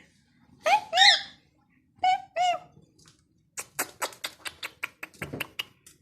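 Small pet parrots, lovebirds, chirping: two pairs of short arched chirps, then from about halfway on a run of quick, sharp clicks, several a second.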